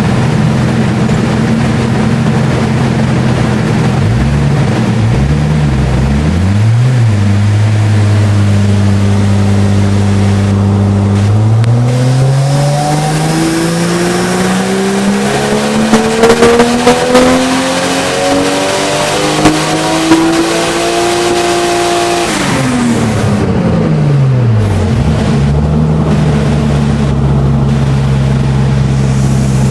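Toyota 1JZ twin-turbo straight-six on a dyno: it idles, is blipped a few times, held at a steady speed, then pulled through a long run that rises in pitch for about ten seconds. A few sharp cracks come near the top of the run, then it drops off quickly and settles back to idle.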